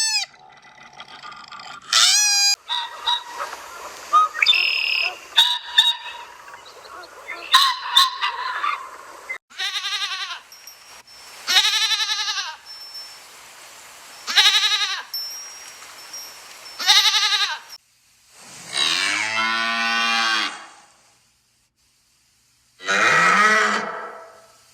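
Farm animals calling in a series of separate calls: several short, high-pitched calls every two to three seconds, then a longer, deeper call about three-quarters of the way through, and one more call near the end.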